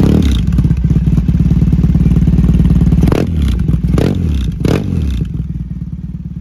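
Triumph Thruxton 900's air-cooled parallel-twin engine running through a Zard exhaust at a fast idle, blipped three times in quick succession about three to five seconds in, then settling to a lower, steady idle near the end.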